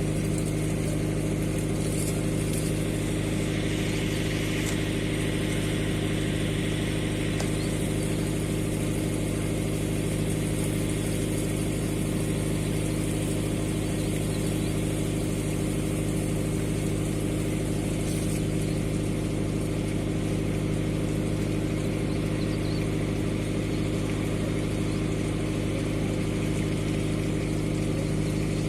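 A steady low mechanical hum, like an idling engine, with an even pitch and level.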